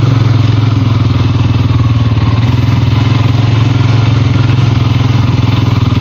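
Four-wheeler (ATV) engine running steadily at an even speed while being ridden.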